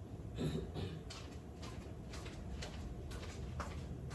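Faint light ticks and rustles, a few a second, of dry cake mix being shaken and sprinkled from its box over the peaches.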